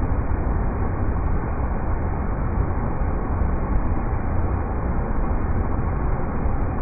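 River rapids rushing: a steady, unbroken wash of water noise, heaviest low down and dull, with no high hiss.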